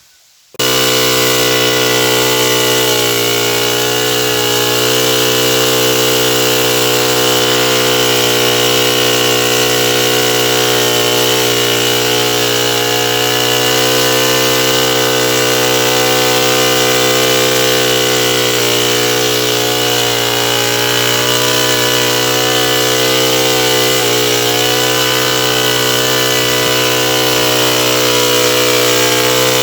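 Stihl 070 two-stroke chainsaw running at a steady high speed, its engine note holding almost constant with slight dips. It starts abruptly about half a second in.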